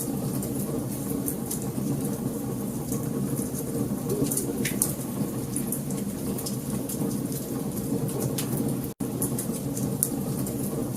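Wood fire crackling, with frequent sharp pops and snaps over a steady low roar of the burning logs. The sound cuts out for an instant about nine seconds in.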